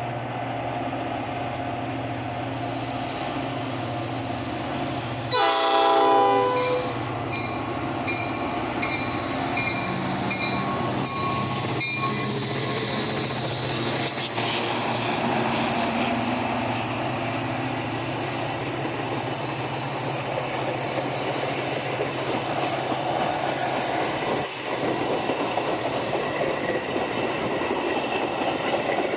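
Freight train passing with its diesel locomotive running, sounding a short horn blast about five seconds in, then the cars rolling by with a steady rumble and wheel clatter.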